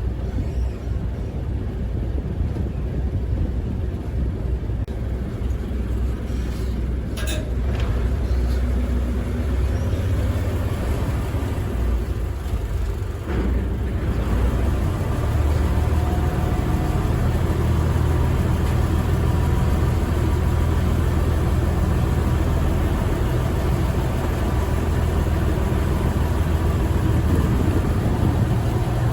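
Cross-river ferry's engine running with a steady low rumble, which grows louder about halfway through. Two brief knocks come before the rise.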